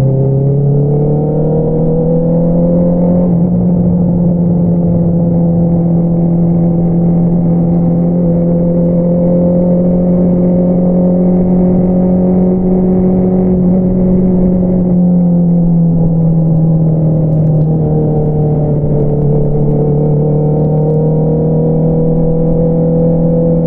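2022 Honda CBR650R's inline-four running through an Akrapovič single-outlet exhaust. The revs climb over the first few seconds, hold a steady cruise, then ease back to a lower steady note about two-thirds of the way through.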